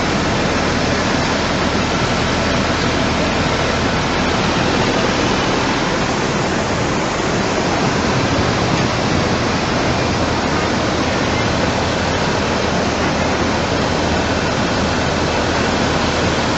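Steady, loud rushing noise of fast-flowing floodwater.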